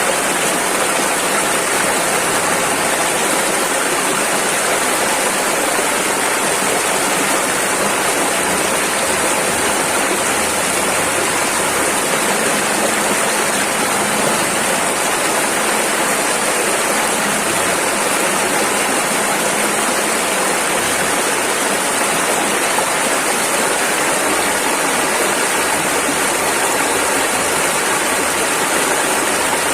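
Rushing river water, a steady, loud wash of rapids with no let-up.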